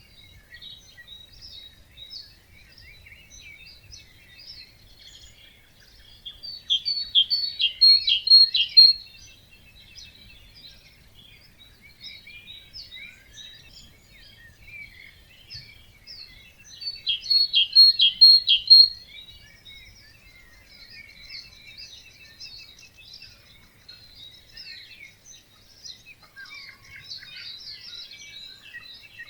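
Dawn chorus of many songbirds. One nearby bird repeats a loud song of rapid notes, about two seconds long, roughly every ten seconds, over many fainter songs and calls.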